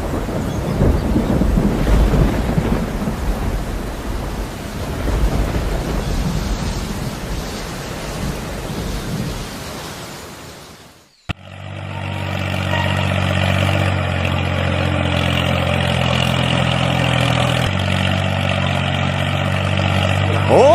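Deep rumbling noise like a thunderstorm with rain, fading out about halfway through. After a sudden cut comes a steady drone of several held pitches, with a short rising whine at the very end.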